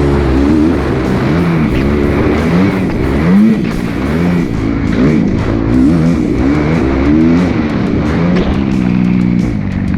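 2018 Kawasaki KX250F's single-cylinder four-stroke engine revving up and falling back over and over as the throttle is worked through the gears, with background music.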